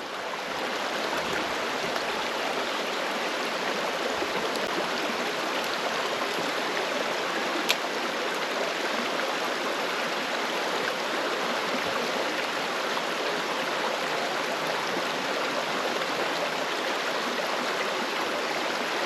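Creek water rushing steadily over rocks in a current. A single short click sounds once, a little under 8 seconds in.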